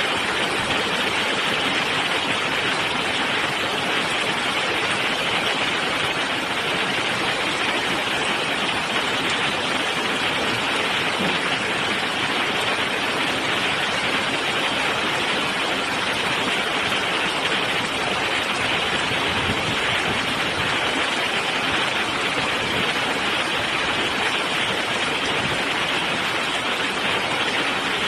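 Heavy rain in a steady downpour: an even, unbroken hiss.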